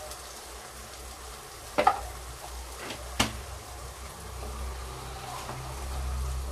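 Taro stems and onion sizzling gently in a clay pot on the stove, with a few sharp pops about two and three seconds in.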